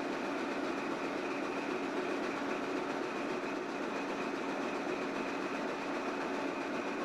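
Diesel locomotive running steadily, a continuous mechanical hum with a steady higher whine.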